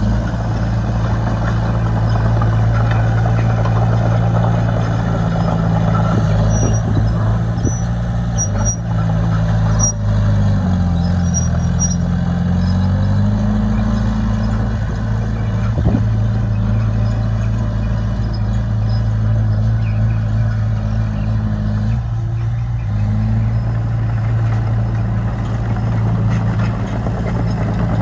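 A bulldozer's diesel engine running steadily under work. Its note drops about ten seconds in and climbs back a few seconds later.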